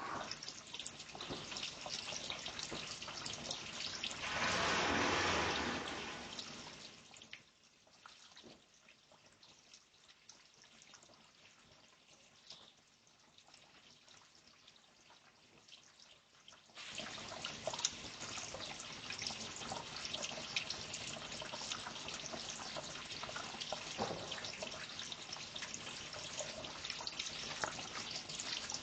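Running water trickling and dripping, with many small splashes. It swells to a louder gush about five seconds in, falls to faint for about ten seconds, and then resumes steadily.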